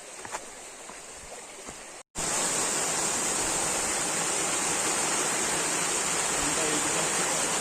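A quiet background with a few faint clicks. About two seconds in the sound cuts abruptly to the loud, steady rushing of a waterfall.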